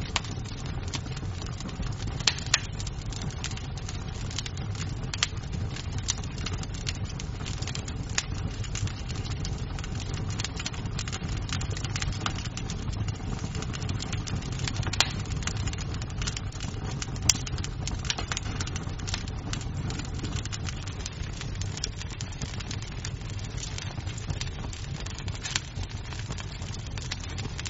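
Wood fire crackling in a fireplace: a steady low rumble of flames with frequent sharp pops and snaps of burning wood, and a few louder pops in the middle.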